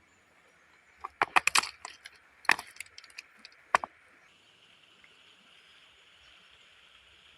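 A quick run of sharp cracks and knocks about a second in, then single cracks at about two and a half and nearly four seconds, over a faint steady hiss.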